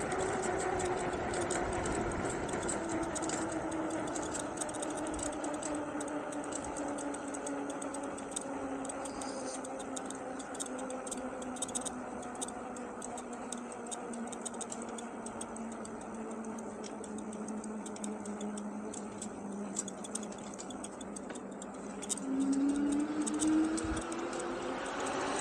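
Engwe Engine Pro e-bike's 750 W hub motor whining, its pitch sinking slowly as the bike loses speed, then rising quickly near the end as it speeds up again. Scattered light clicks and rattles run over it.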